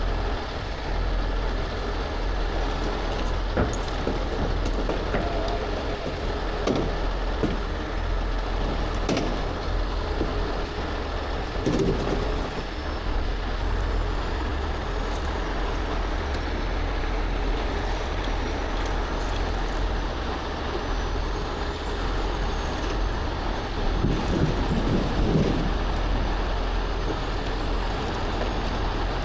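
Heavy tow trucks' diesel engines running steadily as their booms upright an overturned box truck.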